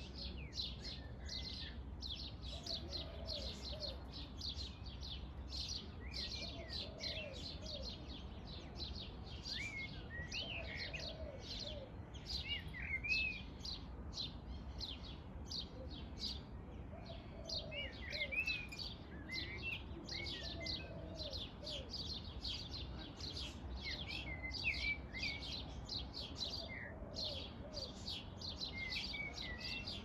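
Many small birds chirping rapidly and without a break, with louder whistled notes now and then and a lower call repeating every couple of seconds.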